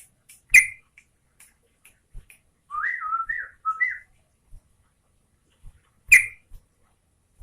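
Yellow-vented bulbul (trucukan) calling: a sharp loud note about half a second in and another near the end, with a short, wavering whistled phrase of a few notes in between.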